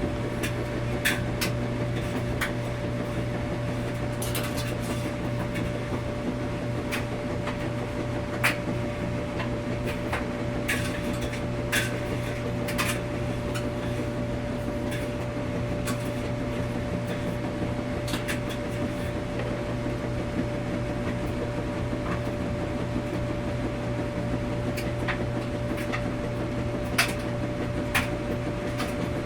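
Washing machine running: a steady low hum with a steady tone above it, and scattered sharp clicks and ticks at irregular intervals.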